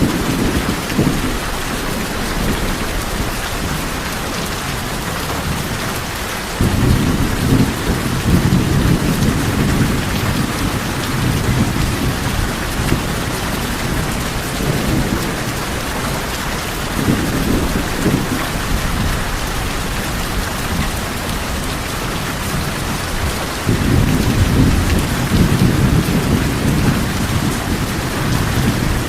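Rain falling on tin roofs as a steady hiss, with long low rolls of thunder rising about a quarter of the way in and again near the end.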